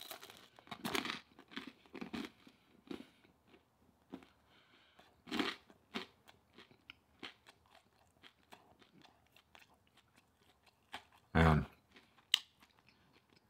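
Close-miked chewing of food with crunchy bites, busiest in the first few seconds and with a louder crunch about five seconds in.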